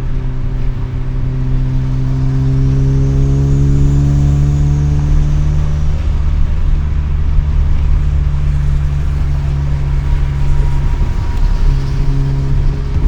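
Mazda RX-7 rotary engine heard through an RE Amemiya Dolphin Tail 90 Curl exhaust, picked up inside the cabin with the windows down. Its pitch rises slightly over the first few seconds, then settles into a steady drone at cruise, with a brief dip about eleven seconds in.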